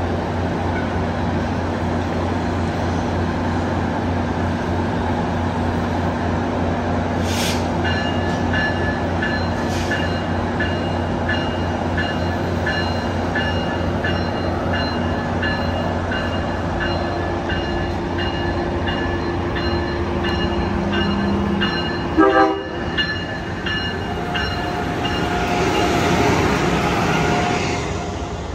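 Passenger train at a station, running with a steady low rumble and hum. A high ringing tone repeats over most of the middle, and a brief horn sounds about three-quarters of the way in. The rushing noise then swells and fades near the end.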